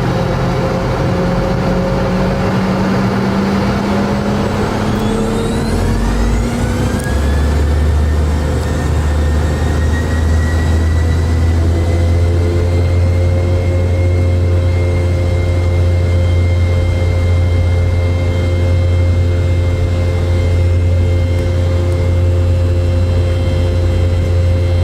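Rolls-Royce BR715 turbofan on a Boeing 717, heard from the cabin seat right beside the rear-mounted engine, spooling up. A rising whine climbs over a few seconds, about five seconds in, then settles into a steady high whine over a loud low drone.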